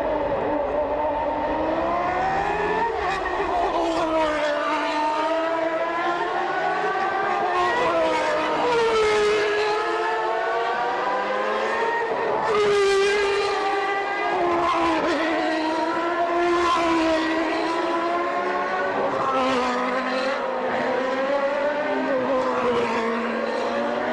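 Formula One car engines from 1989, naturally aspirated 3.5-litre racing engines, revving hard. The pitch climbs and drops again and again as the car shifts up and down through the gears.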